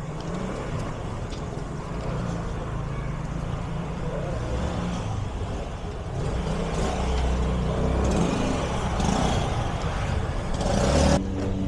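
Street traffic: a motor vehicle's engine running close by, a low rumble that grows louder in the second half, with a hissing rush that cuts off suddenly near the end.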